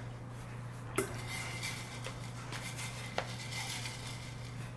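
Two light clinks of hard objects being handled on a table, one about a second in and a weaker one around three seconds, over a steady low hum.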